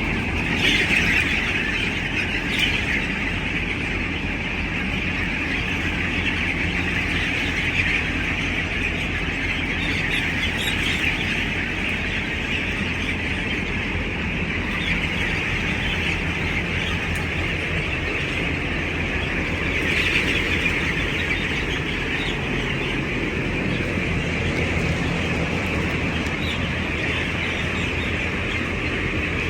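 A large flock of broiler chickens in a poultry shed, calling continuously in a dense, high-pitched chorus of cheeps and squawks over a steady low rumble.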